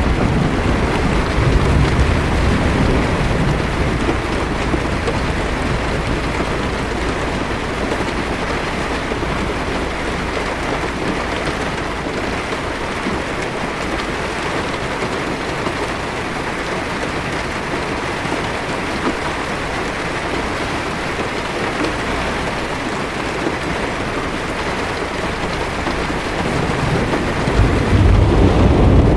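Steady heavy rain falling on a car's windshield and roof, heard from inside the car. A low thunder rumble dies away over the first few seconds, and another swells up near the end.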